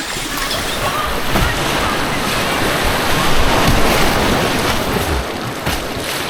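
White-water rapids rushing and splashing around a kayak as it runs the course. The roar swells to its loudest about halfway through.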